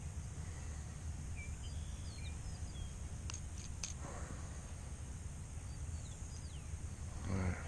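Outdoor ambience: several faint, short bird chirps over a steady low rumble, with a few sharp clicks about halfway through.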